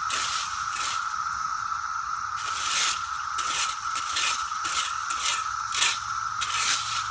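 Rake scraping through piles of dead cicadas in short repeated strokes, two or three a second, over the steady, unbroken drone of a periodical cicada chorus.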